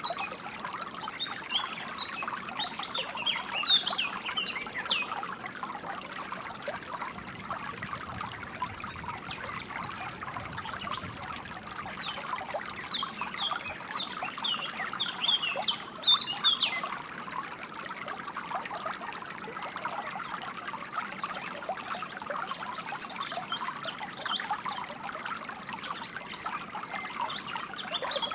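Water trickling and burbling steadily, with birds chirping in short bursts of high calls now and then over it.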